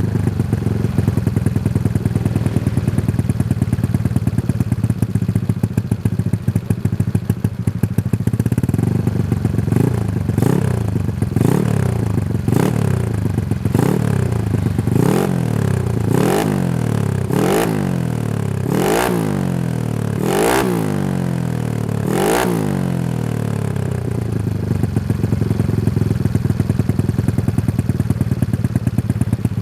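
Honda Scoopy's single-cylinder scooter engine breathing through a CLD Racing New C2 aftermarket exhaust, idling, then revved in a series of about ten quick throttle blips, each rising and falling in pitch and getting harder toward the end, before settling back to idle.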